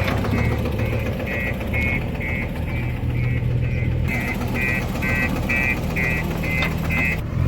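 Heavy diesel engine running steadily while a reversing alarm beeps about twice a second over it. The beeps stop shortly before the end.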